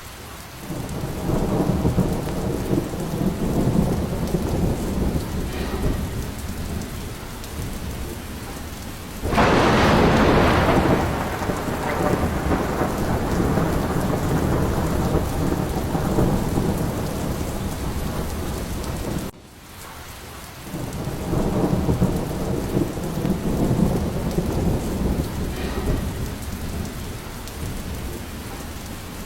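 Thunderstorm: steady rain with rolling low rumbles of thunder. About nine seconds in a sudden loud crash of thunder sets in, and about two-thirds through the sound drops abruptly before the rumbling builds again.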